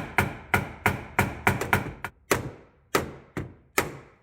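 A hammer tapping out a dent in the sheet metal of a car body panel: about a dozen sharp metallic strikes, roughly three a second and slightly irregular, each ringing briefly. The strikes stop near the end.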